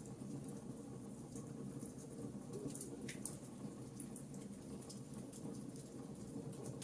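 Wood fire crackling in a fireplace: frequent small, sharp snaps and pops over a steady low rumble of the burning fire, with a slightly bigger snap about three seconds in.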